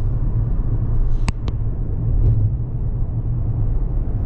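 Car driving, with a steady low rumble of road noise and two short clicks a little over a second in.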